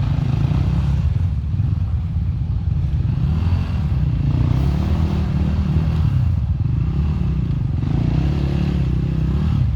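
Enduro motorcycle engine running under load, its revs rising and falling over and over as it is ridden.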